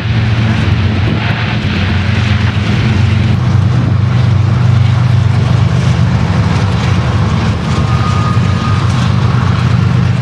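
Canadian Pacific freight train's General Electric diesel locomotives running loud and steady as the train passes, with a brief high squeal about eight seconds in.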